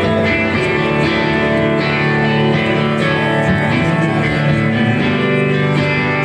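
Live rock band playing an instrumental passage led by guitars, with steady sustained chords.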